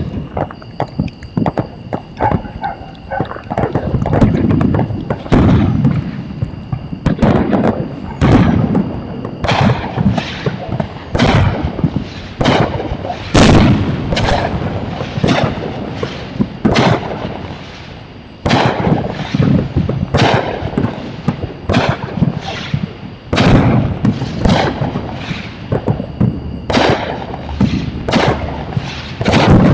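Fireworks going off in a rapid, irregular barrage of sharp bangs, dozens of them, several a second at times, many followed by a low rolling boom. A faint steady high-pitched whine runs underneath.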